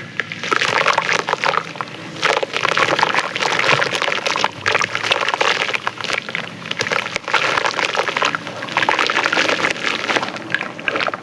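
Soft, crispy clay or sand-cement chunks crumbling in water: a dense crackle of many tiny clicks that rises and falls in waves.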